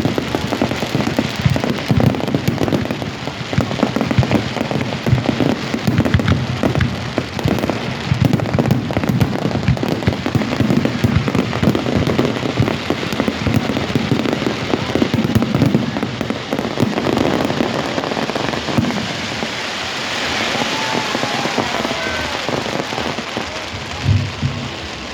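Fireworks display: dense, rapid crackling and popping, easing off over the last few seconds.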